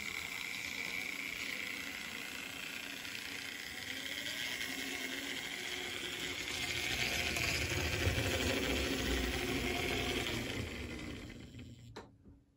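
Märklin BR89 model locomotive running on its track: a steady whirring and rattling of the small electric motor and wheels, louder about two-thirds through, then fading away just before the end.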